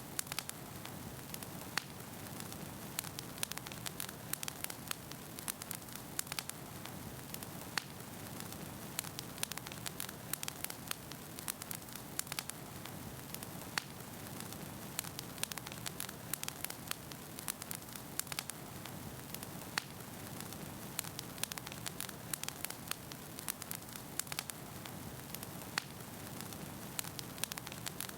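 Wood fire burning in a fireplace: a steady low rush of flame with frequent sharp, irregular crackles and pops of burning logs.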